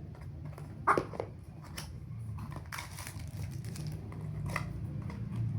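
Packaging being handled: crinkling and rustling with scattered clicks, and a sharper knock about a second in, over a steady low hum.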